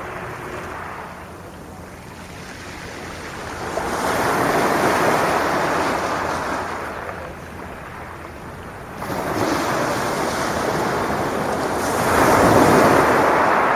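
Sea waves breaking on the shore and washing back, the surf swelling and fading three times a few seconds apart, the last wave the loudest near the end.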